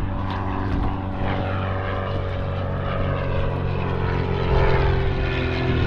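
Small propeller plane flying over, its engine a steady drone that gets louder about four to five seconds in.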